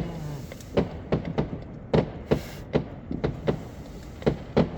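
Fireworks going off: a quick, irregular string of sharp bangs and pops, about a dozen in under five seconds, the loudest about two seconds in and again near the end.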